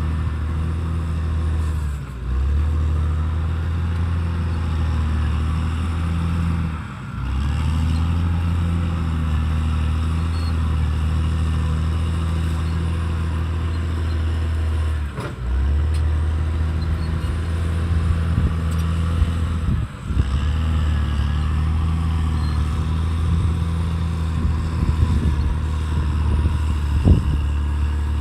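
Caterpillar D6R XL bulldozer's diesel engine running steadily with a deep hum, dipping briefly about four times. Scattered knocks and rattles in the second half.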